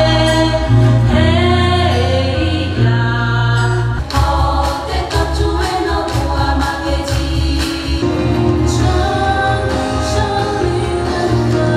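Music: a group of voices singing together in chorus over a low pulsing beat, from a Tsou traditional song-and-dance performance.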